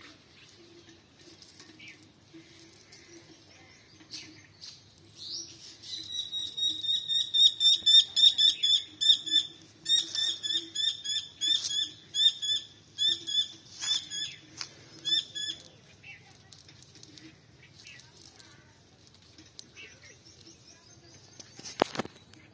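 A bird calling a long, rapid series of sharp chirps, about five or six a second, in several runs lasting about ten seconds. A single sharp knock near the end.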